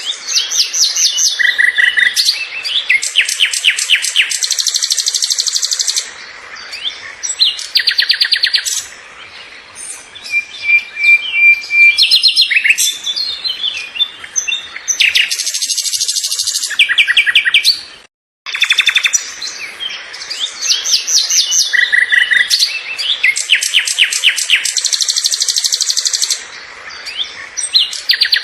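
Songbirds chirping and singing in fast trills of rapidly repeated high notes, with short pauses between phrases. The sound drops out for a moment about two-thirds of the way through, then similar phrases resume.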